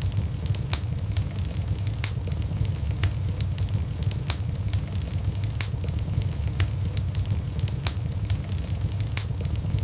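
Wood fire burning in a fireplace: a steady low rumble of the flames with sharp, irregular crackles and pops of burning logs.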